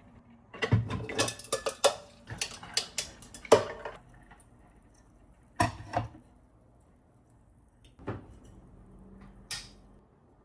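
Dishes and cutlery clattering as they are handled: a quick run of clinks and knocks for about three seconds near the start, then a few single knocks spread over the rest.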